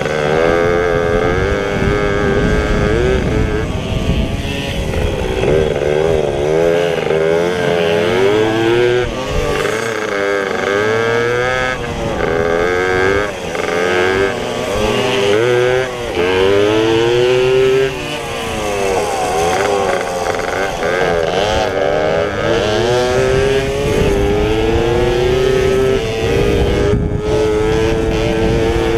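Several pit bikes racing, their engines revving up and down over and over as they shift and work through the track, with more than one engine heard at once. Near the end one engine holds a steadier, slowly rising pitch.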